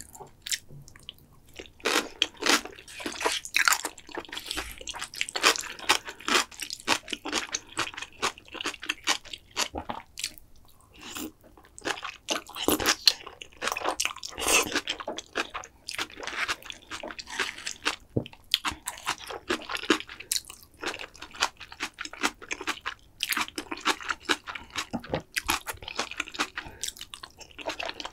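Close-miked eating: pickled yellow radish and black-bean-sauce noodles being bitten, crunched and chewed, in quick irregular crackles with a few brief pauses.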